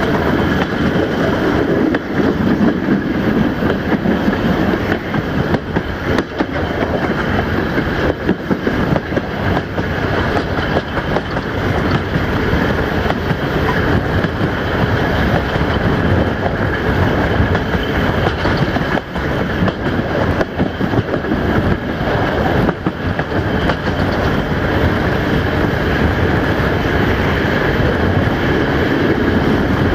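Passenger train rolling along the rails, heard from a coach window: a steady rumble of wheels and rushing air, broken by irregular clicks and knocks from the wheels over the track.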